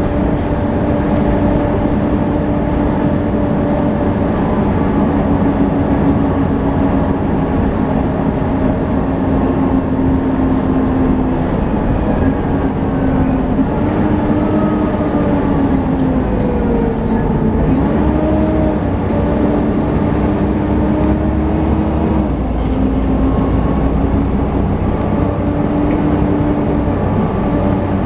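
Volvo B7TL double-decker bus on the move, its driveline giving the steady high whine that enthusiasts call "hoovering". The whine's pitch dips and climbs again midway, over a steady low rumble, with a faint regular ticking for a few seconds in the middle.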